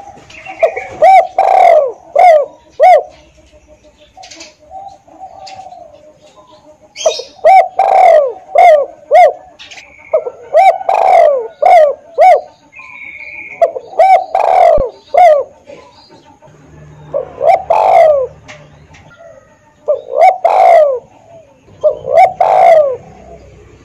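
Spotted dove (tekukur) cooing: loud phrases of several short, falling coo notes, repeated every two to three seconds with short pauses between.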